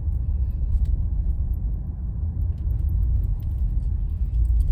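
Car driving along, a steady low road rumble with a few faint ticks.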